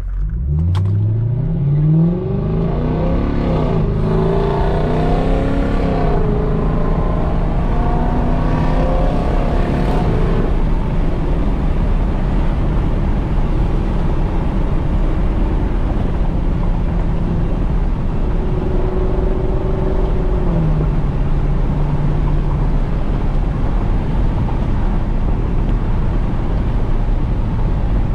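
Straight-piped Lexus SC430's 4.3-litre V8 (X-pipe, no mufflers) accelerating: its note climbs quickly in pitch over the first couple of seconds, rises and falls through gear changes, then settles into a steady cruising drone.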